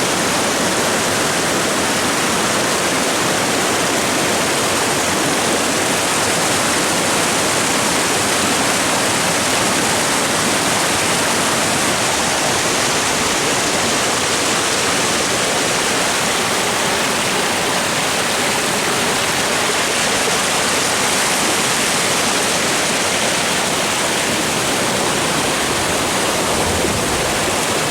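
Rain-swollen hillside stream rushing loudly and steadily over rocks, running high after a night of heavy rain.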